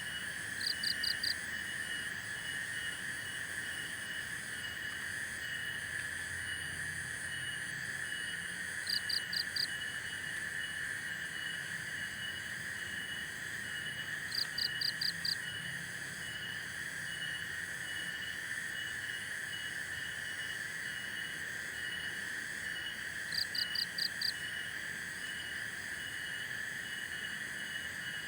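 A night chorus of insects and frogs: a steady high buzzing drone with a regular pulsing chirp above it. Four times, a few seconds apart, a louder call of four or five quick notes stands out.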